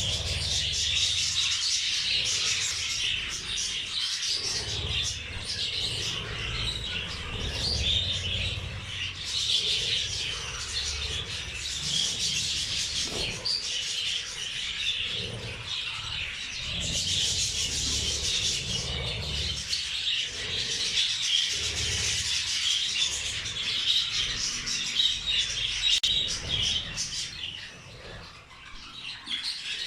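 A flock of budgerigars chattering and chirping continuously, with a low rumble underneath.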